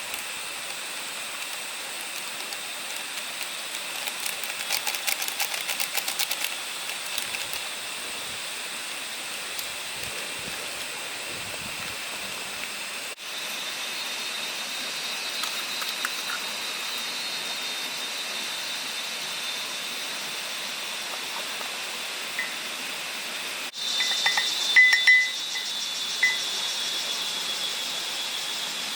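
Steady forest ambience: a constant hiss with high steady tones above it, a run of rapid ticks early on, and a few short chirps and clicks near the end, broken twice by abrupt cuts.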